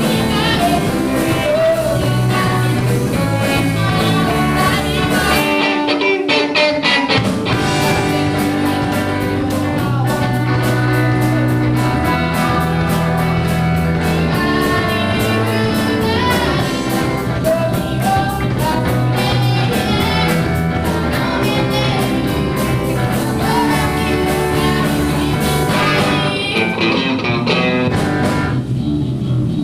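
Rock band playing a song with a singer, guitar, bass and drums; about six seconds in the low end drops out briefly under a quick run of hits.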